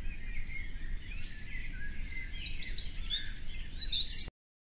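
Many small birds chirping over a steady low rumble, the calls growing busier and higher about halfway through, then everything cuts off suddenly near the end.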